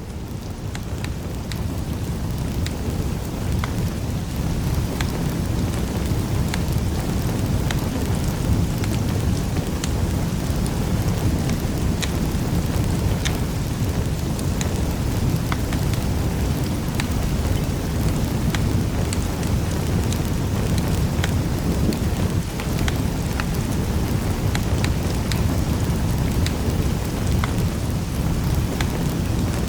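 Wood fire in a fireplace crackling, with frequent irregular sharp pops over a steady low roar of the flames. It fades in over the first couple of seconds.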